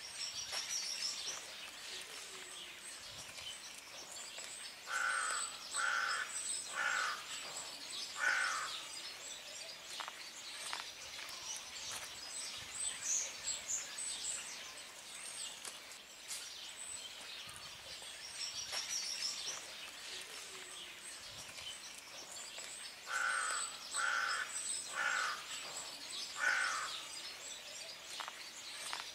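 Birds calling: two runs of four calls about a second apart, with high chirping over a steady background hiss.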